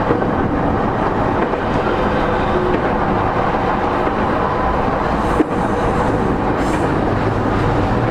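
Running noise inside a motor car of an E231-0 series commuter train at speed: a steady wheel-and-rail rumble with a faint traction-motor hum, and a single sharp knock about five seconds in.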